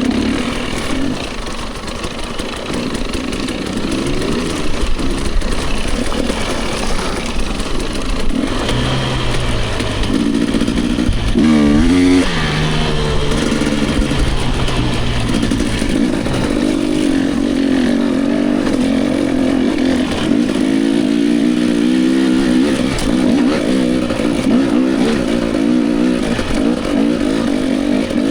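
Dirt bike engine running on a trail ride, its revs rising and falling with the throttle, with a sharp rev up and back down about twelve seconds in.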